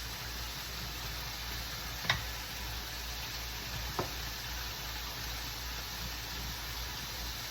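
Chicken frying in a pan, a steady sizzle, with two sharp clicks, the louder about two seconds in and a softer one about two seconds later.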